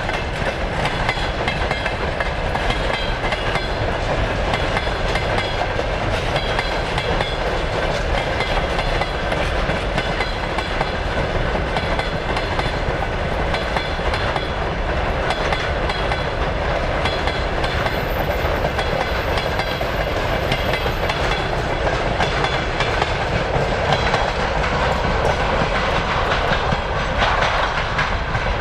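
Container flatcars of a freight train rolling past, a steady rumble of steel wheels on the rails.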